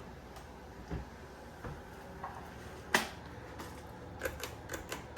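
Irregular light clicks and knocks, a sharper one about three seconds in and a quick cluster near the end, over a faint steady hum.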